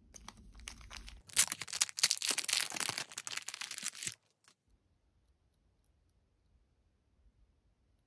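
Parcel packaging being torn open by hand: a crackling, crinkling rustle that grows louder about a second in and cuts off suddenly about four seconds in.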